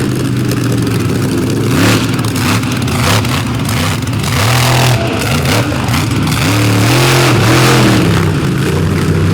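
Monster truck engine revving up and falling back again and again, with popping and crackling. The engine does not sound like it is at 100%, which the commentator puts down to it either leaning out or going down a cylinder.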